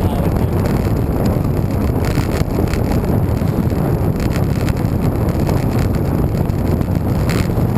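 Wind buffeting the microphone of a bike-mounted camera while riding: a steady, low rushing rumble.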